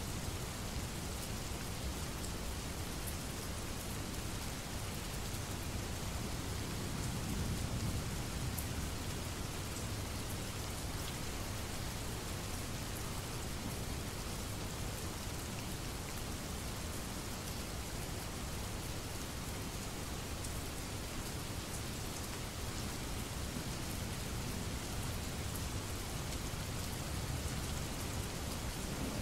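Steady rain falling, with a low rumble of distant thunder swelling about seven seconds in.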